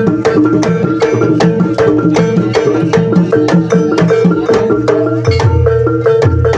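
Live jaranan (ebeg) accompaniment music: an ensemble of hand drums and tuned percussion playing a fast, steady beat of about four to five strikes a second over a ringing held tone. The low drumming grows heavier about five seconds in.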